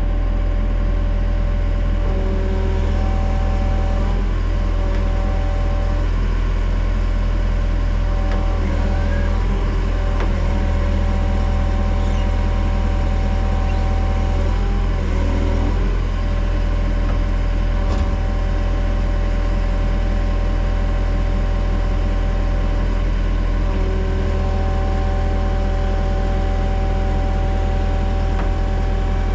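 A heavy machine's engine running steadily, with a higher whine that comes and goes over it.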